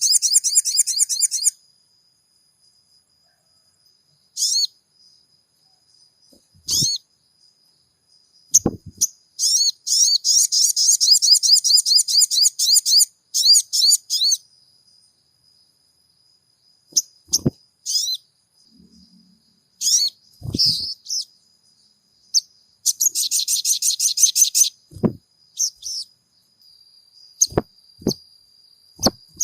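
Sogon bird calls played as a lure: bursts of fast, high-pitched chirping trills lasting one to two seconds, with single sharp chirps between them, over a faint steady high tone. A few short clicks near the end.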